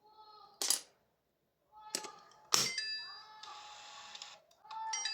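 Optical-fibre fusion splicer being handled and run: sharp clicks, then steady whining tones that step in pitch, a hiss of about a second, and another short tone near the end.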